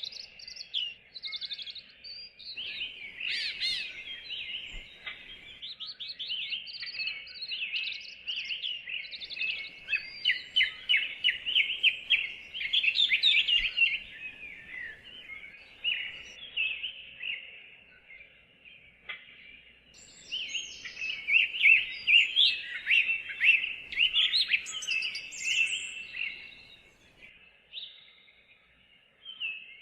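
Several songbirds singing at once in a dense chorus of rapid chirps and trills, swelling and easing in waves.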